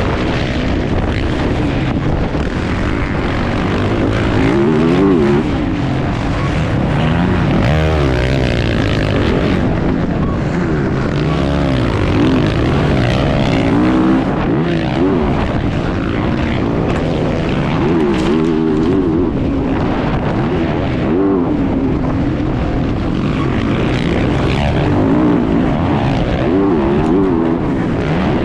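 Motocross bike engine racing, its pitch rising and falling again and again as the rider opens and closes the throttle and shifts through the gears.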